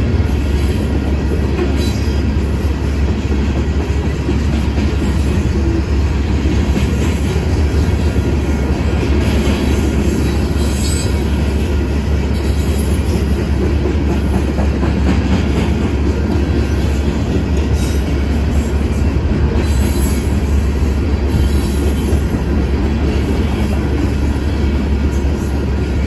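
A long freight train of covered hopper cars rolling steadily past at a grade crossing: a continuous rumble and clatter of wheels on the rails, with a brief high squeal now and then.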